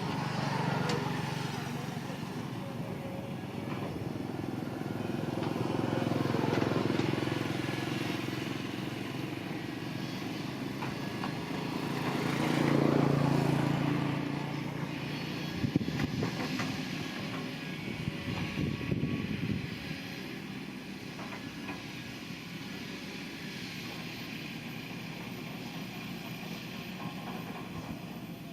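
Diesel engine of heavy earth-moving machinery working, its sound swelling and easing three times, with a few sharp knocks in the middle, then settling to a steadier, lower running sound.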